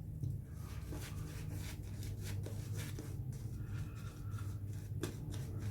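Synthetic-knot shaving brush working a runny shaving soap into lather: soft, irregular rubbing and scratching strokes, over a steady low hum.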